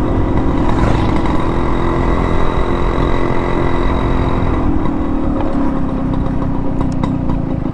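Yamaha RX100's two-stroke single running steadily under way through an aftermarket expansion-chamber exhaust; its pitch eases slightly about five and a half seconds in.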